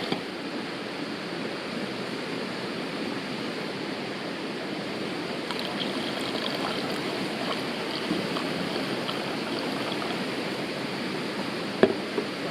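River water flowing steadily, an even rushing babble. A single sharp click sounds near the end.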